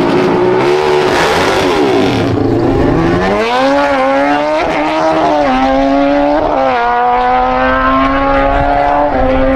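Pickup truck engine revving up and dropping back, then pulling away under throttle. Its pitch climbs steadily, with brief dips a few times that sound like gear changes.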